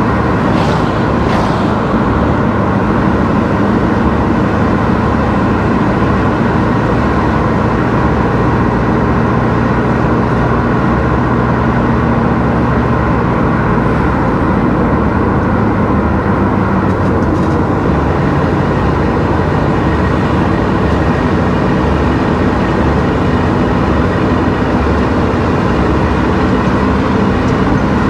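Car driving on the road: a steady mix of engine and tyre noise.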